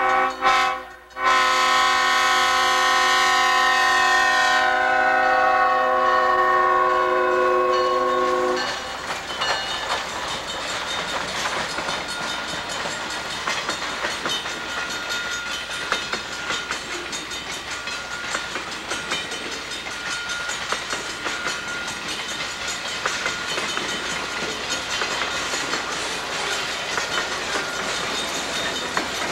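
A diesel freight locomotive's air horn sounds a long held chord, with a short break about a second in, and cuts off about eight seconds in. Then the train rolls steadily past close by, wheels clacking over the rail joints, with a thin squeal coming and going.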